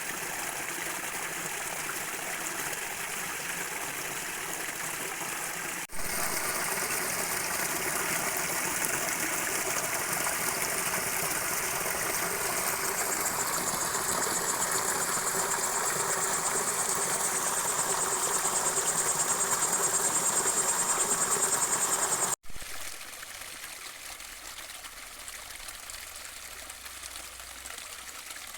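Running water of a stream, a steady rushing hiss. About six seconds in it cuts to a louder stretch in which a high, pulsing trill grows stronger. About 22 seconds in it cuts again to a quieter, softer stretch of water.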